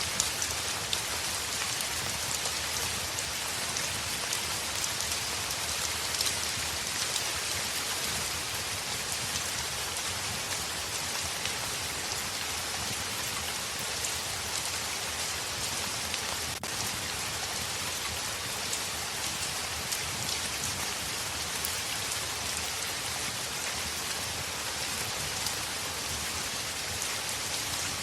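Heavy rain falling steadily on a window pane, a dense even hiss with scattered small ticks of drops.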